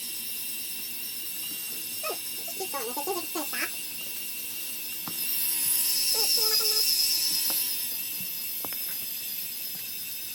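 High-pitched whine of a Lego Technic tractor's electric motors and gears as it pulls a weighted sled. The whine gets louder for a few seconds about halfway through, then eases off.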